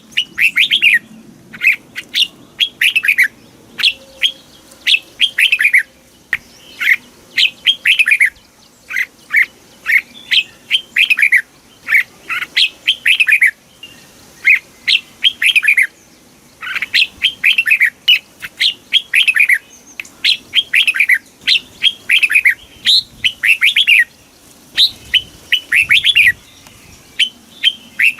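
Red-whiskered bulbul singing: short bursts of quick, falling whistled notes, repeated again and again with brief pauses between phrases.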